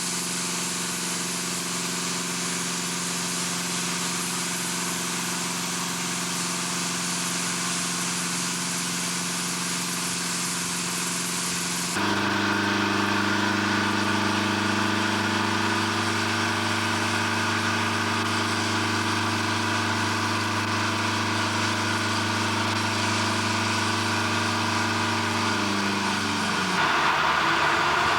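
Heavy machinery running steadily: a hum made of several steady tones. About twelve seconds in it jumps abruptly to a louder, lower-pitched run. Near the end the tones slide downward as a rougher, noisier sound rises.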